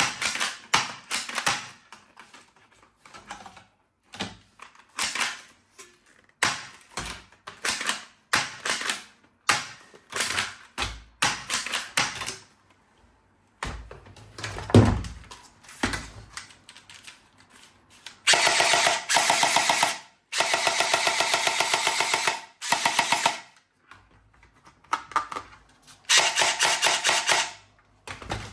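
Toy guns being fired one after another: short bursts of clicks and rattles, one falling tone about halfway through, then long rapid machine-gun rattles in the second half.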